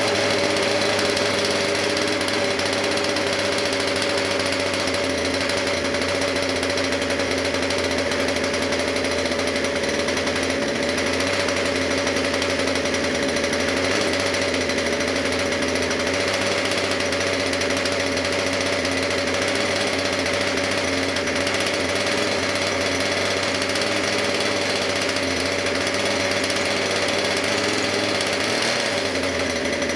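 Gasoline two-stroke engine of a Century Radikal G20 RC helicopter running steadily, a loud, even drone held at one speed.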